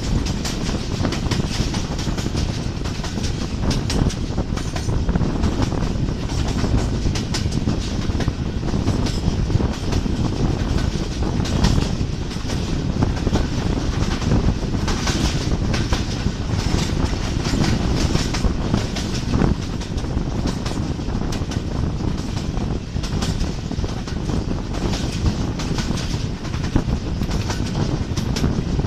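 Pakistan Railways Tezgam Express passenger train running at speed, heard from beside its own coach: a steady rumble of wheels on the track, thick with rapid clicking and clattering over the rails.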